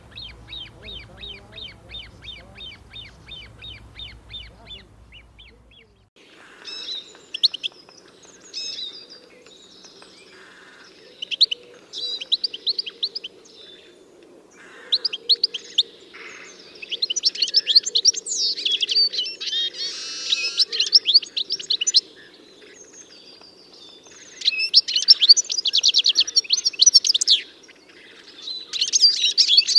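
Songbirds singing: first a rapid series of short, even chirps at about four a second, then, after a change of scene near six seconds in, a different bird's varied song in loud bursts of quick phrases, with a steady low noise underneath.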